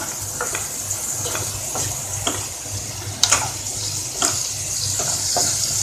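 Spiced onion-tomato masala sizzling steadily in ghee and butter in a pan, with a spoon clicking and scraping against the pan several times as it is stirred.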